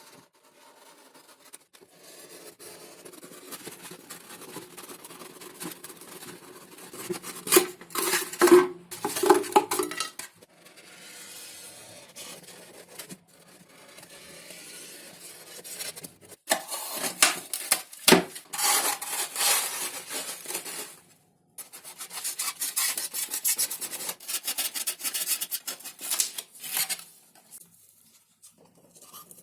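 Rubbing and scraping of thin XPS foam sheet being worked by hand, in several separate stretches a few seconds long with short pauses between them.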